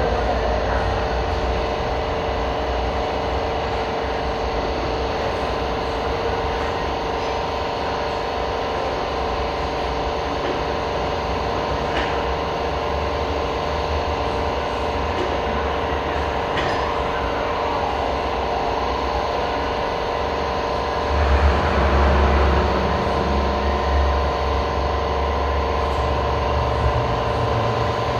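Shop machinery running with a steady hum of several held tones over a noisy background. A deeper rumble swells for a few seconds about three quarters of the way through.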